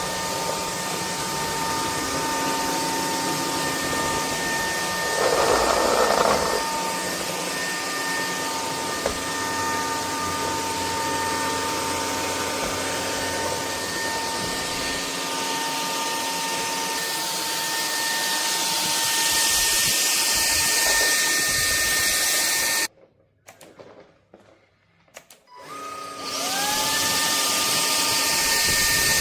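Bulelink cordless stick vacuum running with a steady motor whine and rushing air, a brief louder rush about five seconds in. It cuts out about 23 seconds in and starts again some three seconds later, its whine rising as the motor spins back up.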